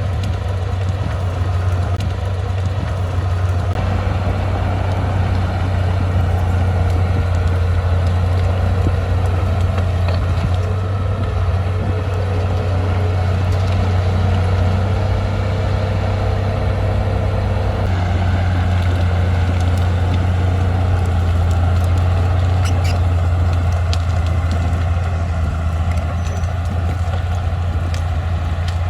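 Diesel engine of heavy earthmoving machinery running steadily with a deep low hum, with a few light metallic clicks in the later part.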